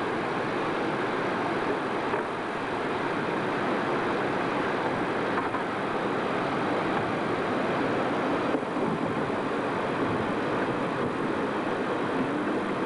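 Steady roar of rushing white water, an even rushing noise that does not let up.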